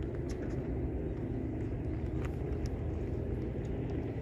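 Steady low rumble of a running engine, with a faint hum and a few faint ticks.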